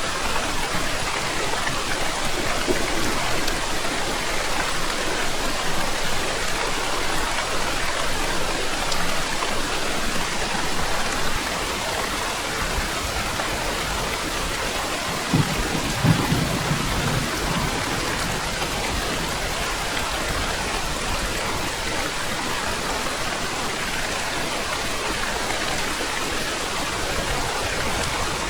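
Steady heavy rain falling, with a short low rumble of thunder about halfway through.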